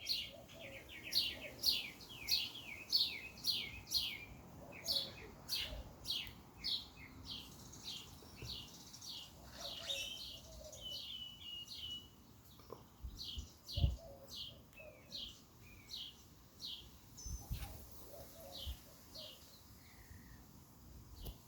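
Small birds chirping: a fast series of short, high, falling chirps about two a second, thinning out after about twelve seconds, with fainter lower calls among them. A single low thump about 14 seconds in.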